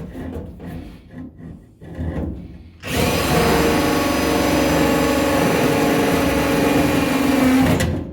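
A handheld power tool, drill-like, runs steadily for about five seconds with a constant whine, starting abruptly and cutting off suddenly. It is preceded by a few scattered knocks.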